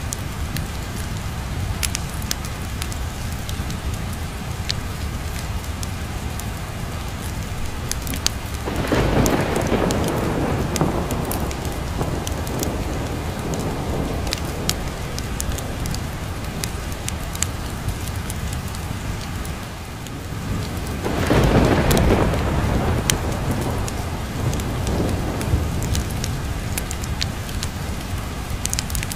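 Steady rain with two long rolls of thunder, the first about nine seconds in and the second about twenty-one seconds in, each building quickly and dying away over several seconds. Sharp crackles and pops from a wood fire are scattered through it.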